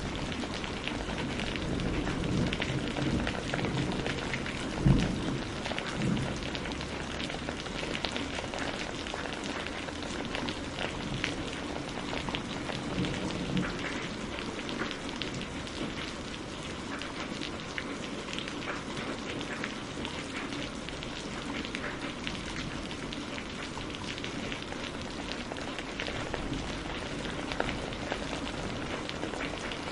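Steady rain falling, mixed with the crackle and pop of a burning wood fire. There is a single dull low thump about five seconds in.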